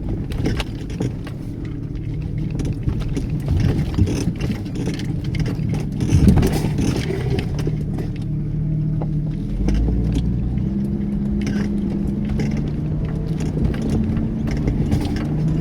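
Vehicle engine running under load as it crawls over a steep, rough, slippery track, its pitch shifting up and down. Frequent knocks and rattles come from the ground and the body, with a low surge of effort about ten seconds in.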